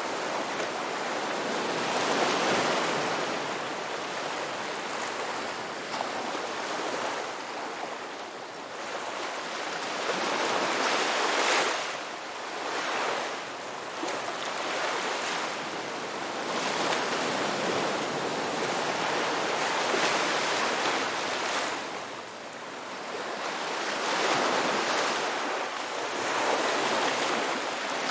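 Ocean waves breaking and washing up a beach, the surf swelling and ebbing every few seconds.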